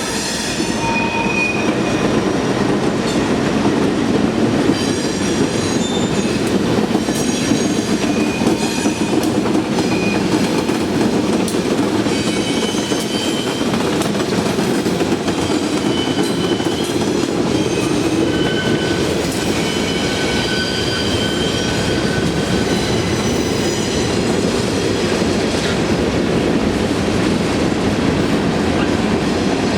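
Freight train rolling past close by: a steady, loud rumble and clatter of wheels on the rails, with short high-pitched wheel squeals now and then.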